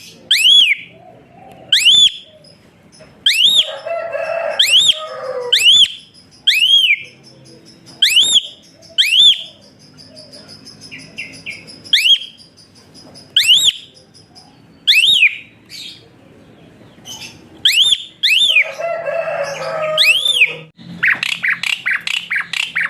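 Asian pied starling (jalak suren) calling: a string of sharp, short whistles that rise and fall, each about a quarter-second long, repeated every second or so. Harsh rasping chatter breaks in twice, and near the end the bird turns to a rapid run of harsh notes.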